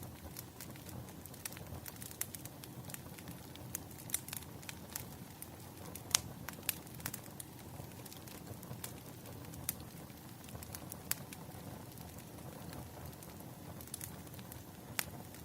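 Burning firewood crackling: irregular sharp pops and snaps over a low, steady rumble of flame, with one louder pop about six seconds in.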